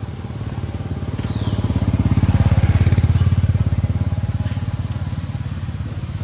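An engine running with a fast, even beat. It grows louder to a peak about halfway through, then fades, as a vehicle passing by.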